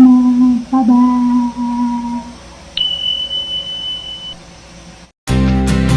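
A voice holds a long, steady note for about two seconds, then a single high electronic beep sounds for about a second and a half. Near the end, after a brief gap, strummed guitar music starts.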